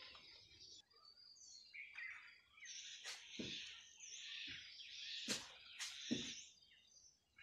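Faint bird chirping, with a few sharp clicks and several dull thumps scattered through the middle and later part.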